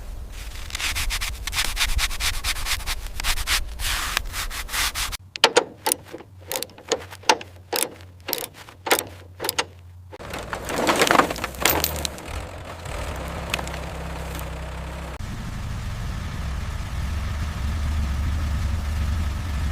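Repeated rubbing strokes, like sanding or scraping on the car's metal, over a low hum. In the middle comes a quicker run of sharp separate strokes with short gaps. From about twelve seconds in there is a steady low hum.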